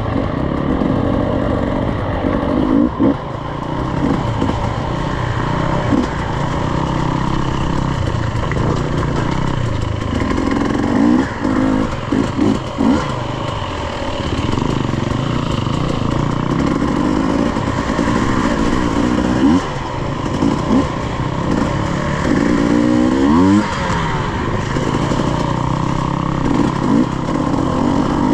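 Off-road dirt bike engine running throughout, revving up and falling back again and again as the throttle is worked. There are sharp surges about three seconds in, around eleven to thirteen seconds, and again near twenty-four seconds.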